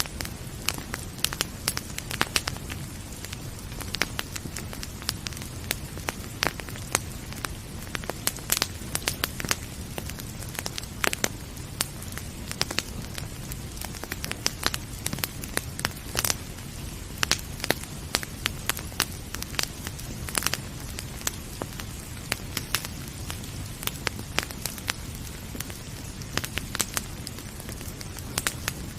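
Wood fire crackling, with irregular sharp pops and snaps over a steady low rush, and rain pattering beneath it.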